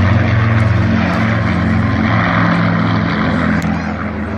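Aircraft engine drone: a loud, steady low hum that eases slightly near the end.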